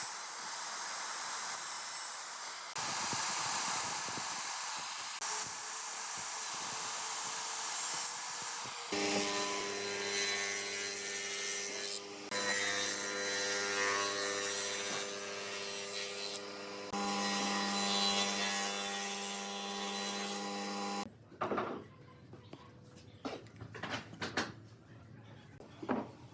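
Woodworking power tools running and working wood, in a string of abruptly cut segments: first a rough hissing, then a steady machine hum with a clear pitch. Near the end this gives way to a quieter stretch of light knocks and clicks.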